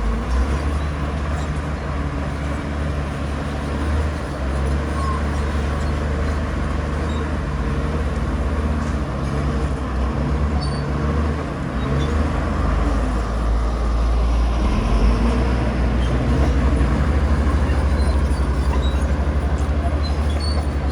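Heavy diesel earthmoving machinery running steadily, a low engine drone that grows a little louder in the second half.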